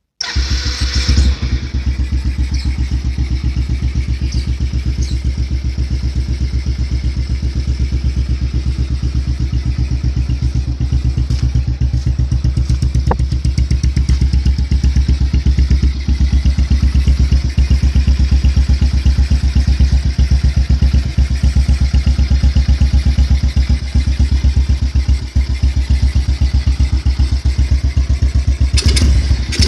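Yamaha Byson's single-cylinder four-stroke engine breathing through an aftermarket DBS exhaust, starting up at once from silence and settling into a steady, evenly pulsing idle. A short blip of the throttle comes near the end.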